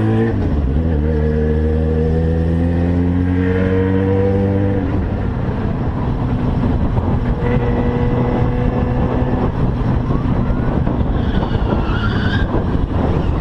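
Motorcycle engine accelerating, its pitch rising over the first few seconds, then running on at speed under heavy road and wind noise on the microphone.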